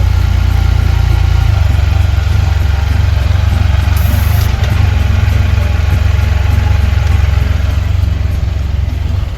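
Motorcycle engine idling close by, a steady low-pitched run, which is cut off near the end as the bike is shut down.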